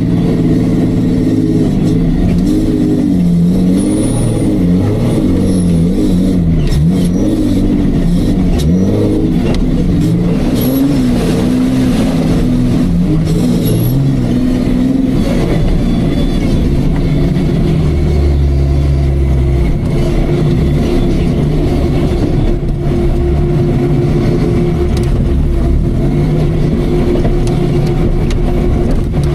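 Off-road racing jeep's engine running hard, its revs rising and falling again and again, then holding steadier in the second half.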